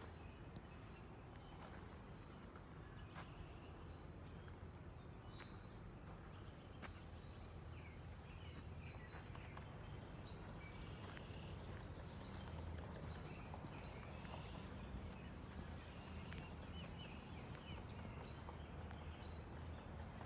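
Faint bird chirps and short trills, scattered and irregular, over a steady low rumble.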